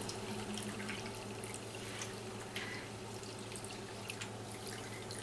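Faint dripping water with a few small ticks, over a steady low hum.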